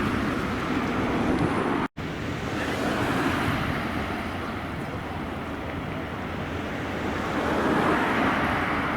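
Cars passing by, heard as a rushing road noise with wind on the microphone, swelling about three seconds in and again near the end. The sound drops out for an instant about two seconds in.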